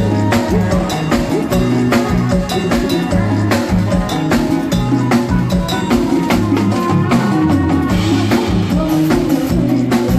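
Live band music with no singing: a drum kit keeps a steady beat under bass and other instruments.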